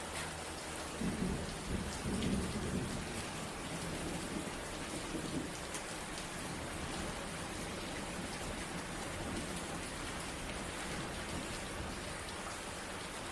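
Steady rain falling, with a low roll of thunder rumbling for a few seconds from about a second in.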